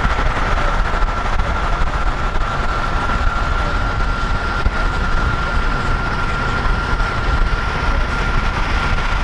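Steady rumble and running noise of a moving vehicle, with a constant high-pitched whine held throughout.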